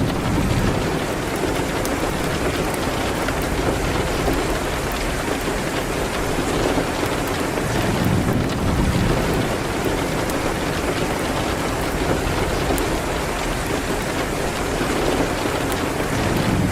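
Steady rain on a window, with faint scattered crackles from a fireplace fire and a low rumble swelling about eight seconds in.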